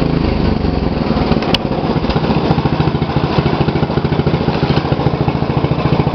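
MTD lawn tractor engine running, settling into a steady, even beat about a second and a half in, with one sharp click at about that moment.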